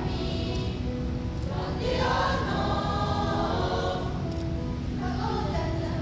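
A junior high school class choir singing an English-language song in parts, voices held steadily with shifting chords.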